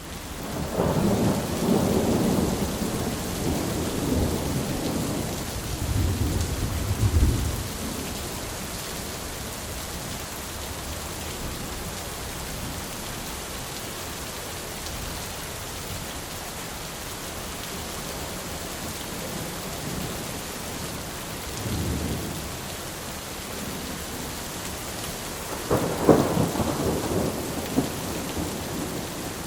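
Steady rain hiss with rolling thunder. A long low rumble comes at the start, a short one about two-thirds through, and a sharper, louder crack of thunder near the end.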